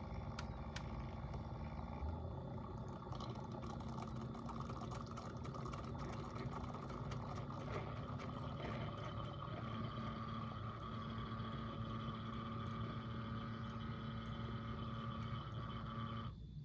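Single-serve K-Cup coffee maker brewing: its pump hums steadily while coffee runs into the cup, then it stops suddenly near the end.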